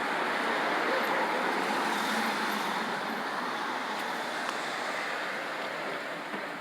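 Road traffic noise: a vehicle's tyres and engine hissing past, swelling about a second in and slowly fading.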